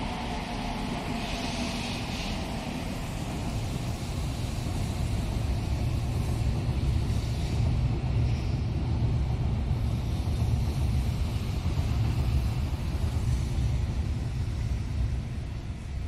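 Shinkansen train running through the station, a low rumble that swells from about four seconds in and eases off near the end.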